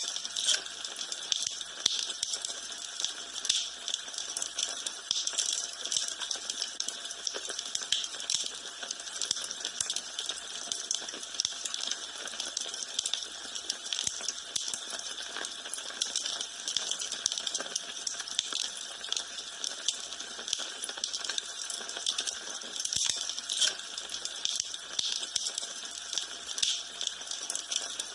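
Wood fire in a fireplace crackling and popping steadily, with a constant hiss under dense irregular snaps.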